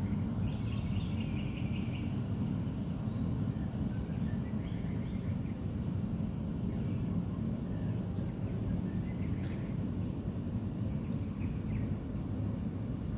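Natural outdoor ambience with a steady low rumble under it. Birds chirp in short phrases a few times, and insects keep up a steady high-pitched drone.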